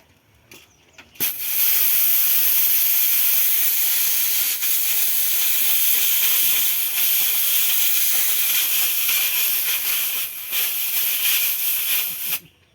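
Compressed air hissing steadily from an air line. It starts abruptly about a second in and cuts off just before the end.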